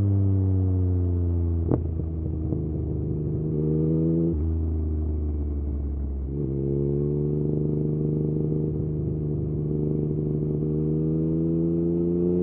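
Yamaha MT-09 inline-three engine through an Akrapovič exhaust, under way. The revs fall on a closed throttle at first, with a single sharp pop near two seconds in. A short rise and drop follows around four seconds, then a sudden shift near six seconds into a steady pull with slowly climbing revs.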